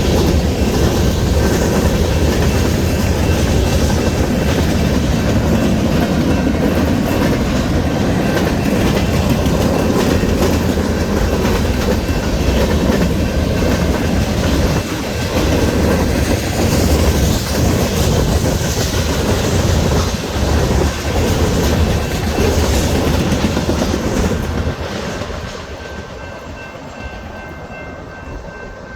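Freight train cars rolling past, wheels clacking rhythmically over the rail joints. The sound drops off about 25 seconds in, leaving a quieter rolling with a faint thin steady whine near the end.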